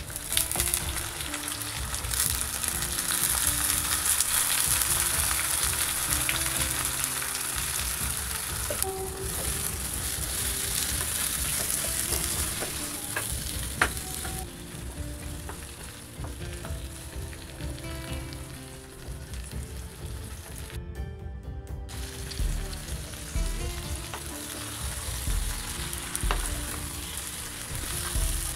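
Eggplant pieces sizzling as they fry in oil in a clay pot while being stirred with a wooden spatula. The sizzle is loudest in the first half and quietens after about fourteen seconds, with one sharp click around then. The sound cuts out for a moment about twenty-one seconds in.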